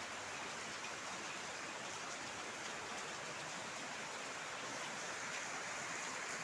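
Heavy rain falling steadily as an even, dense hiss, with faint ticks of individual drops.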